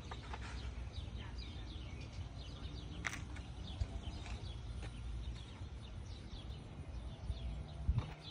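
Small birds chirping repeatedly over a low steady rumble, with a sharp click about three seconds in and a louder knock near the end.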